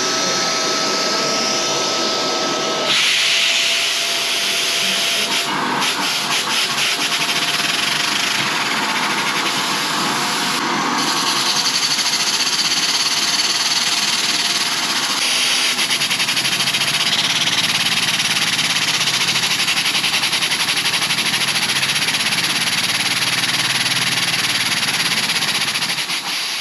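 Household vacuum cleaner running with its nozzle fitted to a homemade Lego vacuum engine, drawing air through it to drive the piston. The motor's whine drops in pitch about three seconds in, and a fast fluttering ripple runs through the second half.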